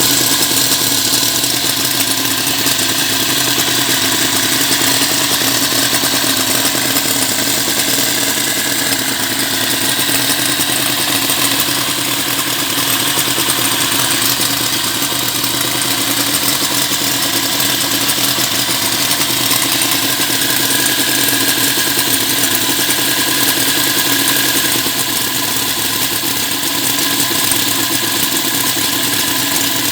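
Small homemade inline four-cylinder engine running steadily at a constant speed, with a busy, high-reaching mechanical sound.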